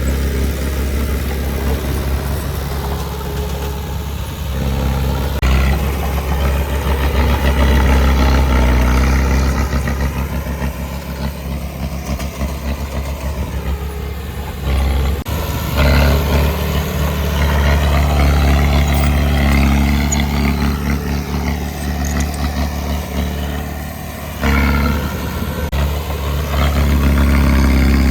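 Heavy diesel engine of earthmoving machinery running under load, its level rising and falling as it works, with sudden changes in level several times.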